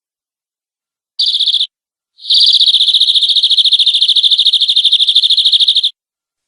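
Domestic canary singing: a short trill, then after a brief gap a long, even, rapid trill of about three and a half seconds, high-pitched and steady in pitch.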